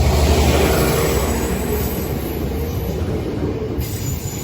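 Northern Ireland Railways Class 4000 diesel multiple unit running away from the crossing, its engine drone and rail noise steady and slowly fading.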